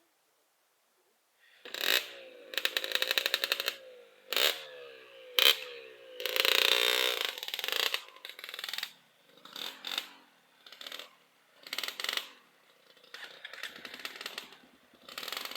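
A trail motorcycle's engine revved hard in repeated bursts, its pitch rising and falling, starting about a second and a half in after near silence.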